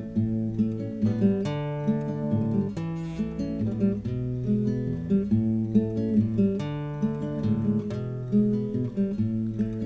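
Strummed acoustic guitar playing an instrumental break in a song, chords changing about once a second.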